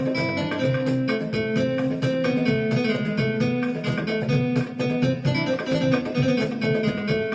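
Instrumental music on an electronic keyboard: a melody over a steady, plucked, guitar-like strummed accompaniment.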